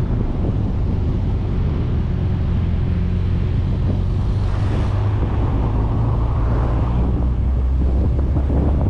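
Wind buffeting the externally mounted microphone of a 1994 VW Gol at highway speed, over a steady low drone from the car and its tyres on the road. A brief swell of hiss comes about five seconds in.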